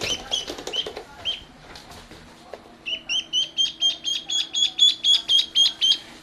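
Duckling peeping: a few high peeps among some clicks in the first second, then from about three seconds in a quick, even run of about four peeps a second.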